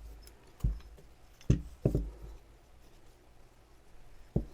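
Four short, separate knocks and thuds over quiet room tone, two of them close together in the middle.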